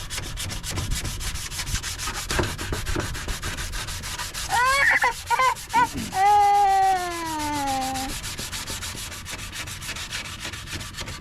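Sandpaper rubbing steadily over a plastic headlight lens in quick, even strokes. Around the middle, a loud high-pitched squeal cuts in as a few short rising-and-falling notes, then one long falling tone.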